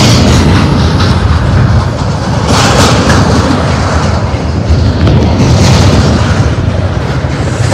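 Double-stack intermodal well cars of a freight train rolling past at close range: a loud, steady rumble of steel wheels on rail, heaviest in the low end.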